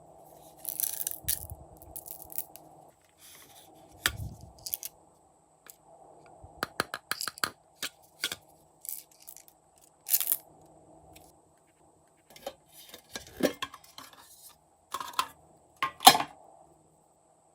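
Glossy slime being handled and mixed by hand: irregular sticky clicks and crackly pops, some in quick runs, with a few sharper snaps.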